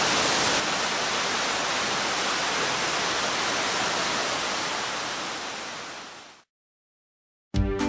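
Waterfall rushing steadily, fading out about six seconds in. After about a second of silence, music begins near the end.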